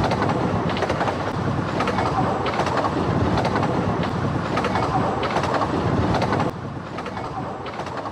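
Miniature steam railway train running, its carriage wheels clattering over the rail joints in a steady clickety-clack. The noise drops sharply about six and a half seconds in.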